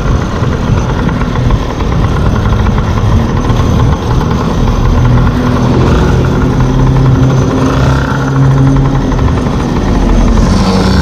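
Small two-stroke engines of gas-powered stand-up scooters running under way, their pitch shifting and rising around eight seconds in, over a steady low rumble.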